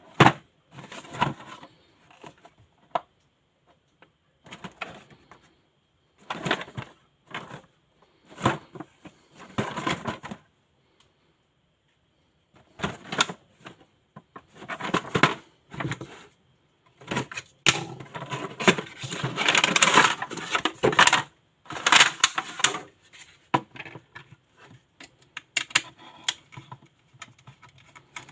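Bursts of clicking, clattering and rustling from small objects being handled, with short pauses between them and the busiest, loudest stretch a little past the middle.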